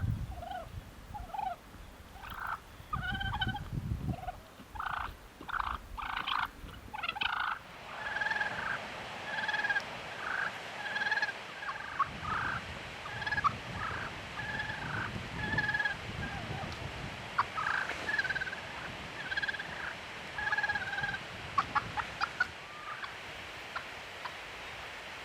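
Wild turkeys calling: many short calls in quick runs from several birds, with a few sharp clicks in the later part.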